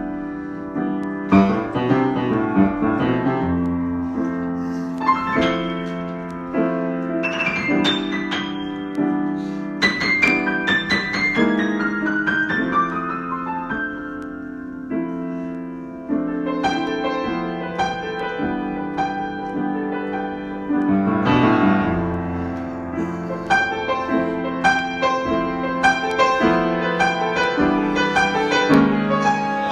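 Solo piano improvisation: struck chords and melody lines with notes left ringing, thinning out briefly around halfway before fuller playing returns.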